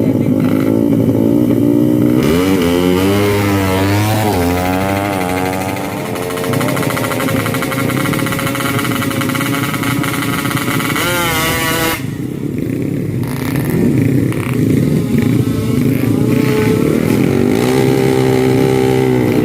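Racing motorcycle engines revving hard under acceleration, the pitch climbing and dropping in steps as the gears change. About twelve seconds in, the high engine note cuts off and a lower engine sound carries on.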